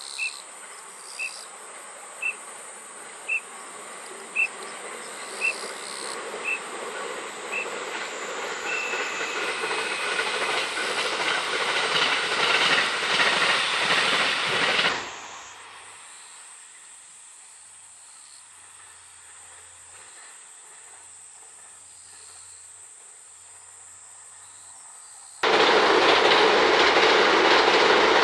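Electric trains on the JR Hokuriku Main Line: one approaches and grows steadily louder over about fifteen seconds, with a short high pip repeating about once a second during the first eight seconds. The sound then cuts off suddenly to a steady insect buzz, and near the end another train cuts in loud as it passes.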